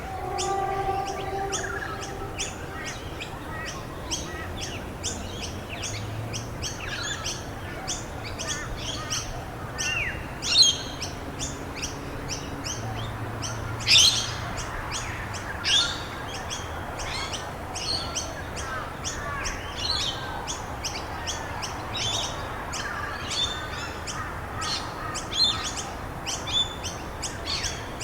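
Several songbirds chirping rapidly and continuously, with a few louder sweeping calls standing out about a third and halfway through, over a steady hiss.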